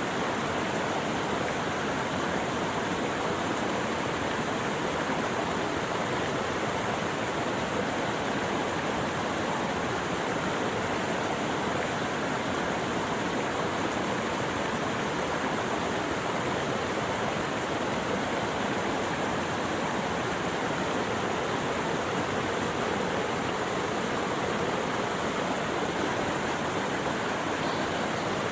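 Running water rushing steadily, an even continuous wash with no change in level.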